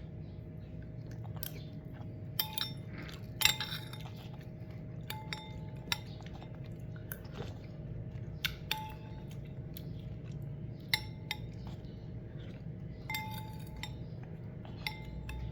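Cat eating from a bowl: chewing, with sharp clinks against the bowl scattered through, several of them ringing briefly.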